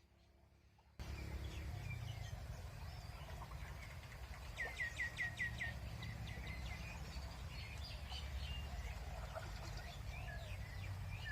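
Birds calling and singing, with one bird giving a quick run of six alike chirps about four and a half seconds in. Underneath is a steady low rumble. The sound starts abruptly about a second in, after near quiet.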